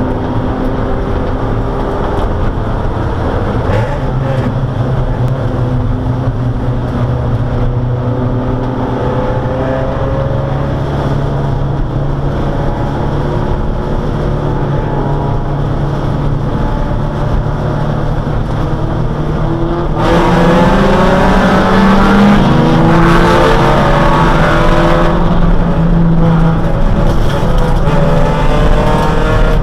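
Dodge Neon race car's four-cylinder engine heard from inside the cabin, running steadily at low revs while the car rolls along. About twenty seconds in it gets louder as the car accelerates, the engine note climbing in pitch several times.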